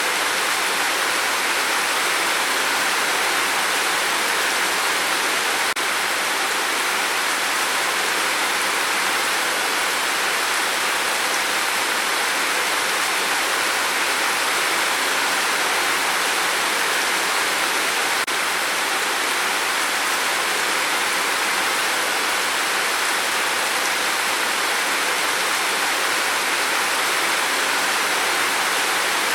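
Steady, dense rain on a tin roof: an even hiss of drops with no breaks or changes.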